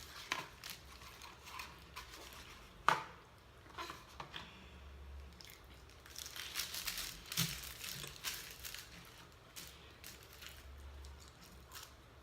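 Paper food wrapper crinkling and rustling amid eating noises, with one sharp click about three seconds in.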